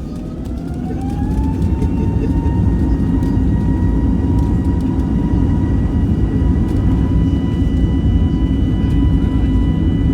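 Airbus A320neo's Pratt & Whitney PW1100G geared turbofans heard from the cabin, spooling up to takeoff thrust. A whine rises in pitch over the first two seconds, then holds steady over a loud, deep rumble.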